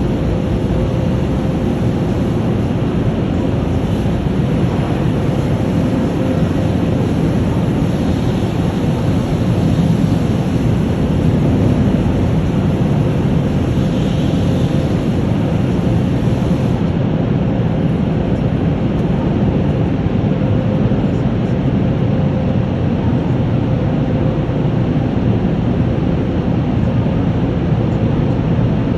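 Automatic car wash machinery running, heard from inside the car: a loud, steady rushing noise with no break.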